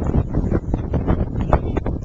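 Wind buffeting the microphone: a loud, gusting low rumble that flutters irregularly throughout.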